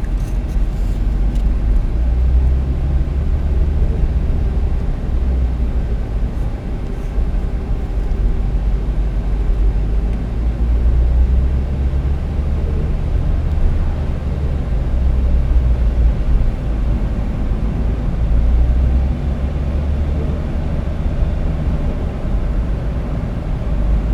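Suzuki Swift ZC71S under way, its engine and road noise running steadily with a deep rumble that swells and eases. It carries the unexplained abnormal noise that the owner hears only around 2,100 rpm while accelerating, seemingly from the lower left of the engine bay.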